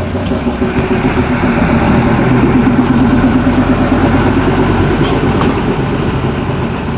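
Narrow-gauge Hokuriku Heavy Industries diesel locomotive's engine running with a steady low drone that grows louder over the first couple of seconds, then eases off a little, with a couple of faint clicks about five seconds in.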